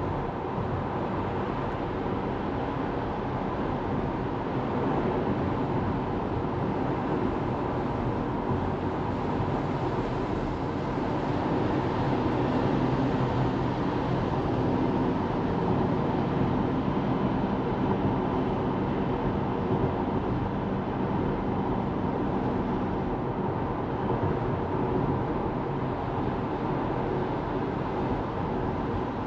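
Steady road and tyre noise of a Tesla Model 3 driving at speed, swelling slightly in the middle.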